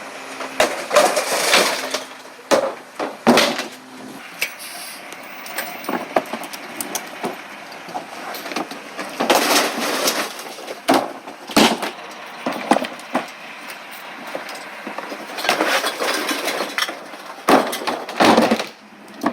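Recyclables clattering and crashing in repeated bursts as they are handled or dumped, with a low steady hum for the first few seconds.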